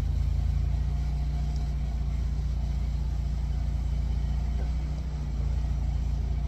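An engine running steadily at a low idle, a continuous low drone.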